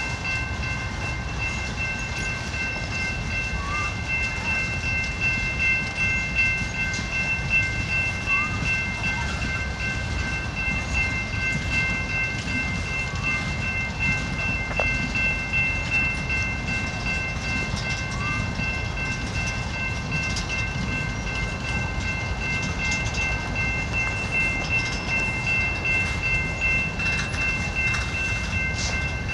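Freight train of boxcars and tank cars rolling past: a low, steady rumble of wheels on rail, with a steady high-pitched ringing tone over it.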